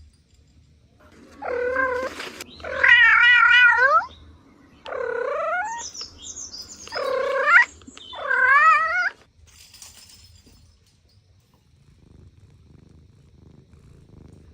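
A cat meowing: five loud, drawn-out meows in quick succession over about eight seconds, some wavering in pitch. A faint low purr follows near the end.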